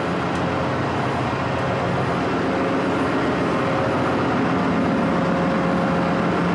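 Ship's machinery running steadily: a loud, even drone with a few steady humming tones in it.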